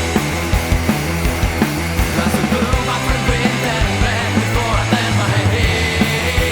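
Grunge-style rock band playing an instrumental passage: electric guitar, bass guitar and drums keeping a steady beat, with sustained bass notes underneath.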